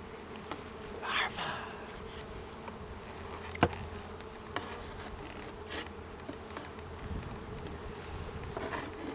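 A swarm of honeybees buzzing steadily around an opened hive. A sharp click about three and a half seconds in, and a few fainter ticks, sound over the buzz.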